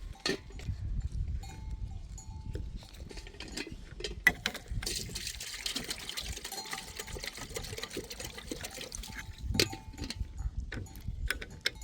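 Bells clinking on a flock of sheep and goats, with scattered clicks and knocks. A steady hiss runs from about five to nine seconds in.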